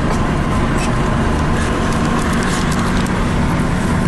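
Steady engine and road noise of a moving taxi heard from inside the cabin: an even low rumble with a steady hum and a few light clicks.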